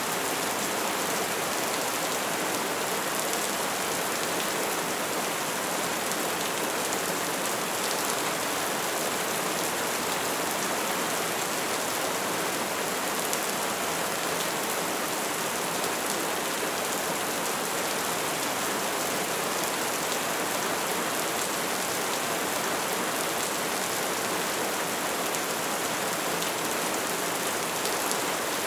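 Steady soft rain falling on a surface, an even hiss of many small drops.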